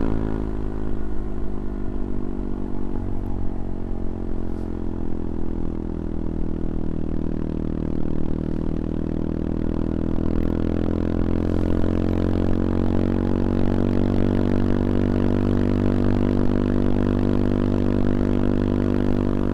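CFMoto Papio XO-1's single-cylinder engine running under way. Its note dips slightly about a third of the way in, climbs back, then holds steady.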